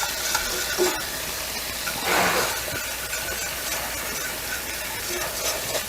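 Butter and flour sizzling in a hot skillet as a roux cooks, a steady hiss with a brief louder swell about two seconds in.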